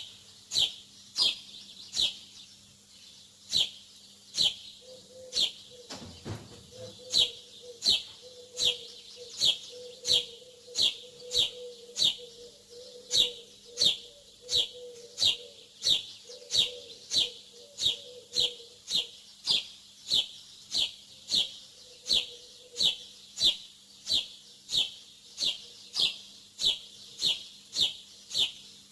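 A small bird chirping over and over, short sharp downward-slurred chirps at about two to three a second, over a faint steady low hum.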